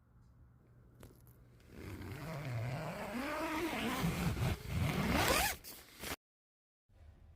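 A zipper being pulled in one long zip of about four seconds, its pitch sweeping and rising, then cut off suddenly.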